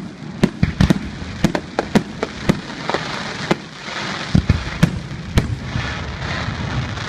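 Aerial fireworks display: a rapid, irregular run of sharp bangs, with a crackling hiss filling in from about three seconds in.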